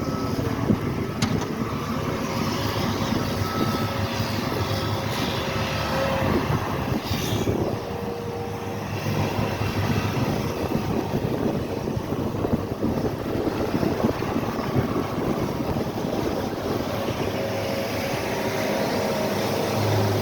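Engines of snow-removal equipment running steadily.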